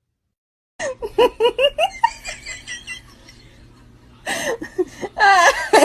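A person laughing hard in quick repeated bursts, starting about a second in, easing off, then breaking out again louder near the end.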